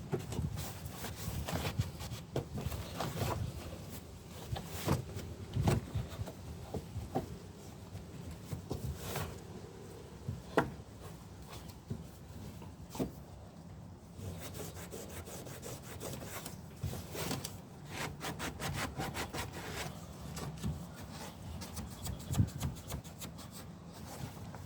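Rubbing and scraping by hand, with scattered clicks and knocks, and a quick run of short scratchy strokes near the end.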